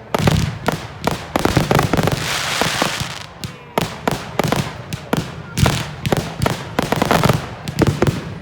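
Fireworks going off in quick succession: a dense run of sharp bangs, several a second, with a burst of crackling hiss about two to three seconds in.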